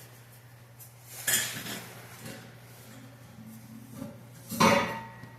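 Metal clanks as a truck's loose exhaust pipe is shifted and knocked: one clank about a second in and a louder, briefly ringing clank near the end.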